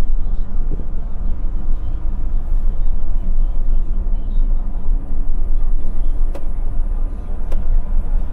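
Scania K450 coach's 13-litre straight-six diesel running under way as a steady low rumble, with two sharp clicks in the second half.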